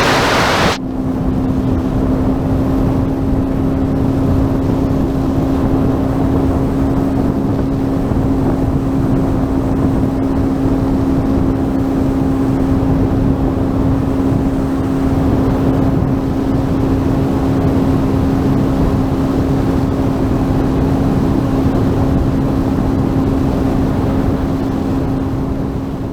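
Sea-Doo Fish Pro jet ski engine running at a steady, unchanging pitch under way, with the rush of water and wind around it. A brief loud hiss of spray or wind comes right at the start, and the sound starts to fall away near the end.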